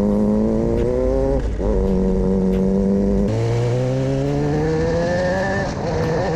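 Sport bike engine accelerating on studded tyres, its pitch climbing steadily and dropping back at a gear shift about one and a half seconds in and again near the end.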